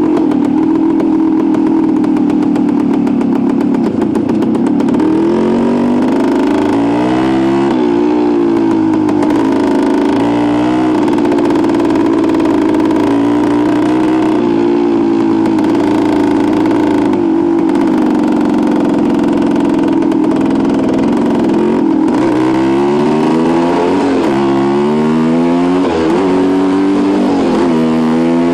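Suzuki TS250's single-cylinder two-stroke engine running under way. Around a quarter of the way in and again near the end, its pitch climbs in a run of short rising sweeps, each dropping back before the next, as the bike accelerates through the gears; in between it holds a steady pitch.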